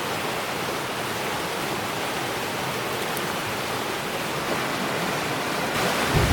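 A steady rush of water in the flood rain. Right at the end a deep rumble sets in.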